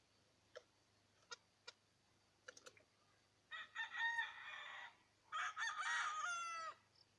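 Rooster crowing twice, each crow about a second and a half long, after a few short clucks.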